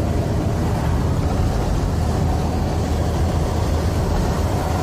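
Steady low rumble of engine and road noise inside a vehicle driving along a climbing mountain road.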